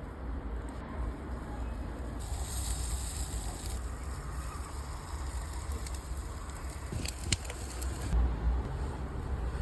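Wood fire in a fireplace hissing and crackling over a steady low rumble, with a few sharp pops about seven seconds in.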